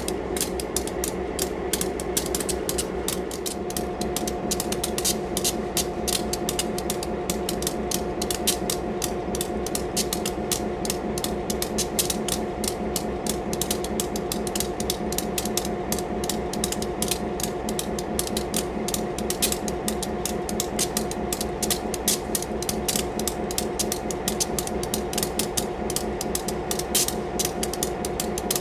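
SD-M diesel locomotive (rebuilt from an SD9) running under way, a steady engine hum under a fast, continuous mechanical rattle and clatter. A second, higher steady tone joins a few seconds in.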